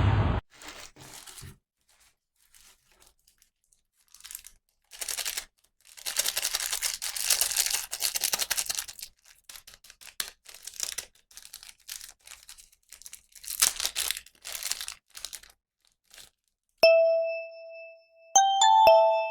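Plastic toy packaging being torn open and crinkled in irregular bursts. Near the end, a few bell-like chiming notes start.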